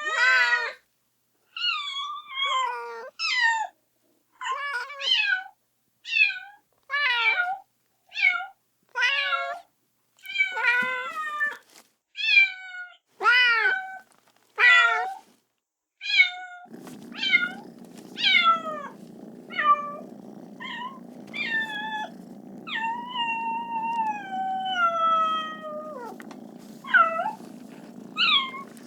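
Kitten meowing over and over, calling for its mother: short, high calls about one a second. A little past halfway a steady low rumble starts underneath, and some calls become longer and drawn out.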